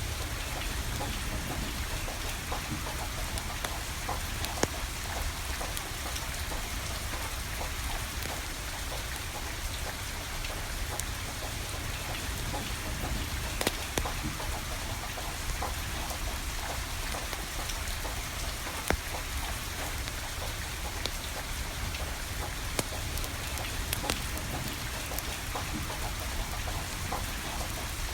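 Steady rain falling, with a wood fire burning and now and then a sharp crackle or pop from the burning firewood.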